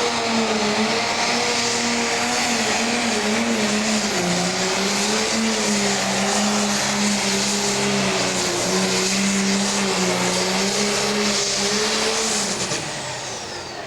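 Turbocharged diesel Pro Stock pulling tractor running hard under load with a steady engine note and a high turbo scream. Near the end the throttle comes off: the engine drops away and the turbo whine falls in pitch.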